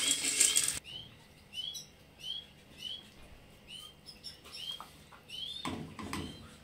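A small bird chirping over and over, one short rising-and-falling chirp about every two-thirds of a second. A loud rushing noise covers it at first and cuts off suddenly under a second in, and a brief louder clatter comes near the end.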